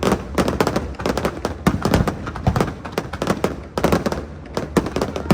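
Aerial fireworks display going off in a dense, irregular barrage: sharp bangs several times a second, each trailing off into echo.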